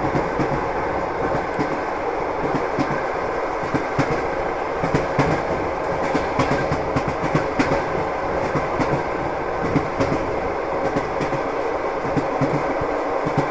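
Passenger train running on the rails: a steady rolling noise with frequent sharp clicks of the wheels.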